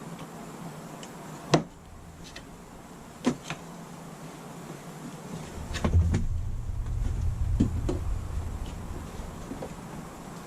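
A plastic fan sleeve being pushed and worked into a ceiling opening against wood framing: scattered sharp clicks and knocks, with a low rubbing rumble from about halfway through that fades near the end.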